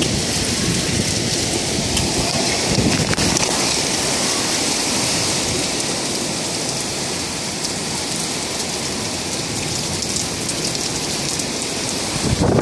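Heavy rain pouring down in a severe thunderstorm: a steady, even hiss.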